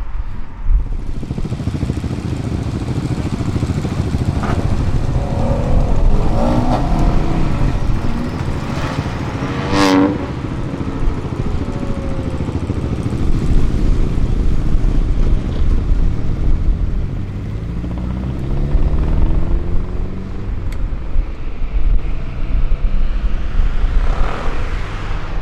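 Vehicle engines driving past, with one passing close and loud about ten seconds in, and another engine accelerating with rising pitch a few seconds later.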